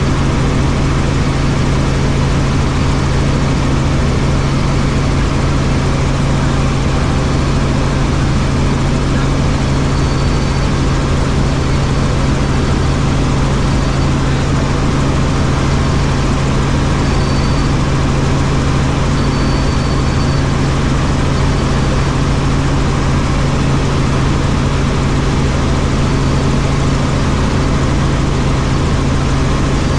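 Helicopter in flight: a steady, loud drone of rotor and turbine with a strong low hum, and faint brief high whines now and then.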